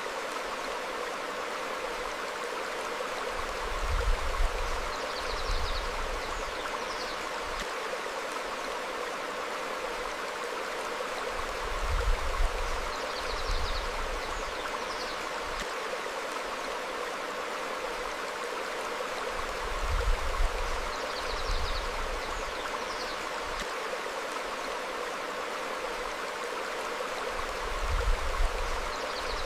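Stream flowing over rocks in a steady rush. About every eight seconds, four times in all, comes a brief low surge, each followed by a few short, high bird chirps.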